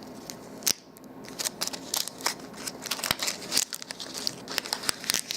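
Plastic wrappers of individually wrapped Riesen chocolate caramels crinkling and crackling in irregular sharp clicks as the candy is handled and unwrapped, with one louder crackle about a second in.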